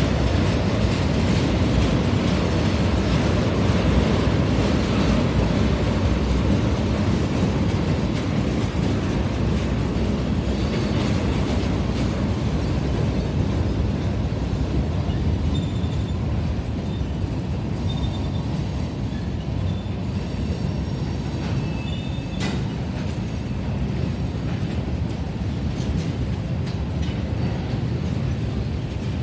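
Freight cars of a manifest train, tank cars and covered hoppers, rolling past: a steady rumble of steel wheels on the rail that eases slightly, with faint short wheel squeals in the second half and one sharp clank about three-quarters of the way through.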